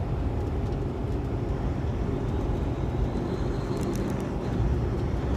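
Steady low rumble of a 2015 Kenworth T680 semi truck's engine and road noise heard from inside the cab while driving.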